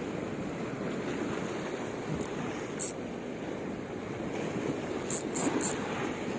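Sea waves washing on the shore, heard as a steady rushing noise with wind, and a few brief high clicks.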